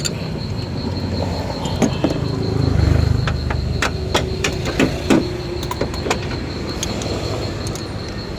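Scattered short metallic clicks and knocks, like hand tools at work, over a steady low rumble that swells about three seconds in, with a steady high pulsing insect-like trill throughout.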